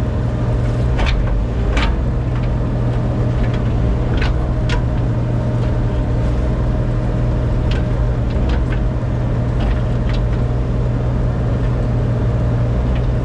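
An engine runs steadily with a strong low hum, most likely the landscaper's compact loader, with scattered sharp clicks and knocks over it.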